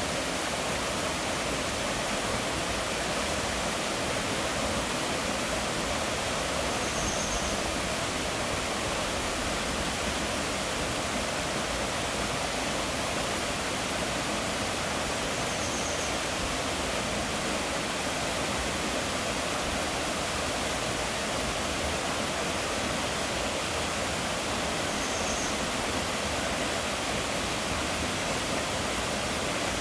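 Steady, even rush of water from a mountain waterfall.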